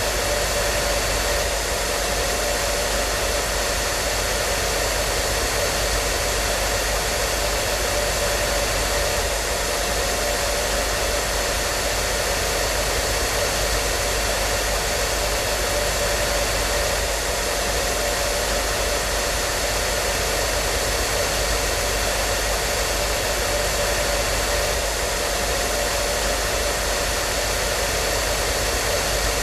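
Hair dryer running steadily: an even rushing blow of air with a constant motor hum and a faint whine, unchanging throughout.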